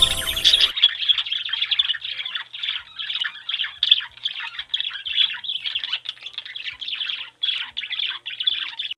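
Many small songbirds chirping and twittering in quick, overlapping calls, after a short loud sound effect at the very start.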